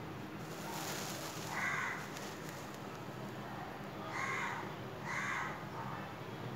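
A bird calling three times, short calls of about half a second each: one about a second and a half in, then two close together near the end.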